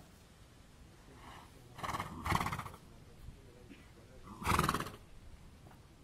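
A horse vocalizing close to the microphone, twice: a longer sound about two seconds in and a shorter one about four and a half seconds in.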